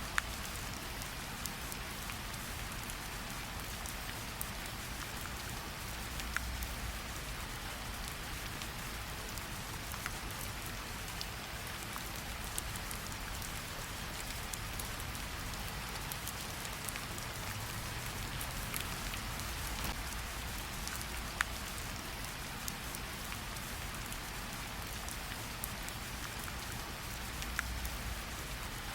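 Steady rainfall, an even hiss of drops with scattered sharp ticks of single drops landing close by.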